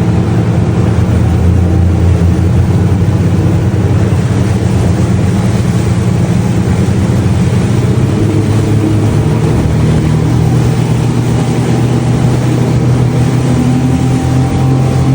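A loud engine running steadily, its low hum shifting pitch a little about two-thirds of the way through, with a rushing noise over it.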